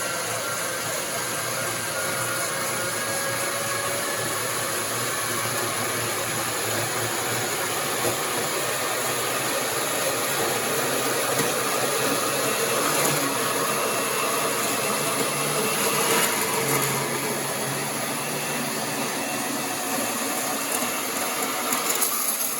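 Bauer 10-amp variable-speed portable band saw (Portaband) cutting through 16-gauge mild steel plate on its third speed setting. The motor runs steadily and the blade grinds through the metal, then the saw stops at the very end.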